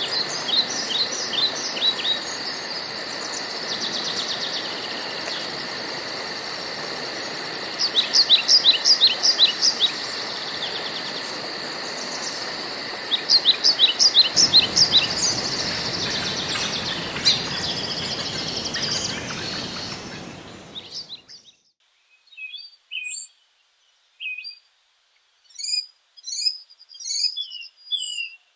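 Woodland birdsong: a bird repeats a quick phrase of short, falling notes every few seconds over steady insect buzzing and a hiss. About two-thirds of the way in, the buzzing and hiss fade out, leaving scattered, separate bird chirps.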